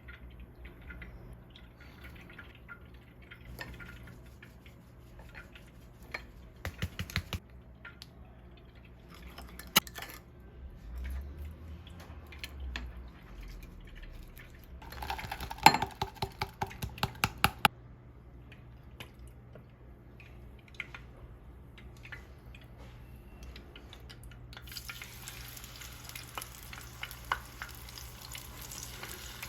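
Kitchen cooking sounds: utensils knocking and clinking against dishes and a pan, including a run of quick taps partway through. A steady hiss of cooking sets in near the end.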